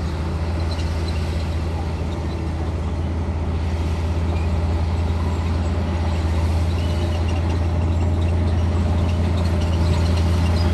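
Komatsu D58E bulldozer's diesel engine running steadily with a deep drone, growing slightly louder toward the end.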